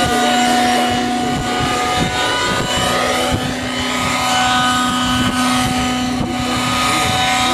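Nitro-engined Synergy N9 RC helicopter in flight: its glow engine and rotors make a steady, high-pitched whine.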